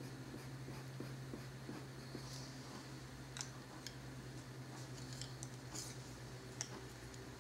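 Colored pencil lightly stroking paper: faint scratchy ticks, a few sharper ones in the middle, over a steady low hum.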